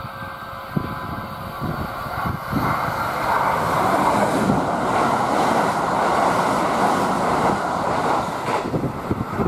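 Kintetsu 21020-series Urban Liner Next electric limited express running through a station at speed: a rolling wheel-and-rail roar that swells as the train nears and is loudest for a few seconds as the cars sweep past, with rhythmic clacks of the wheels over the rail joints.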